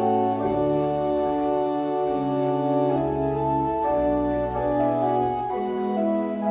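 Organ playing slow sustained chords with a moving bass line, typical of a church prelude.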